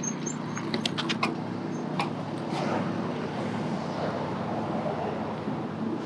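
Street traffic with a steady low engine hum, and a quick run of sharp clicks about a second in.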